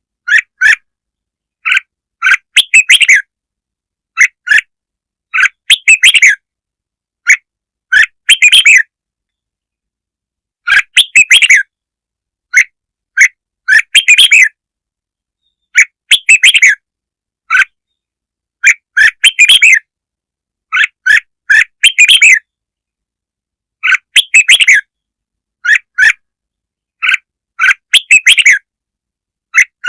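Red-whiskered bulbul song, a lure recording for bulbuls: short, loud chattering phrases repeated every two to three seconds with silence between.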